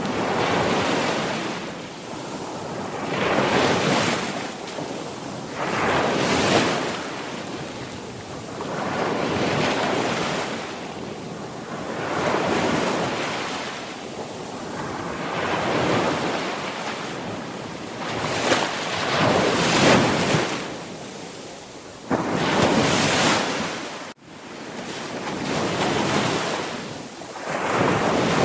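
Sea waves breaking and washing up on the shore, a rushing surge that swells and fades every few seconds. The sound cuts out for an instant about three-quarters of the way through.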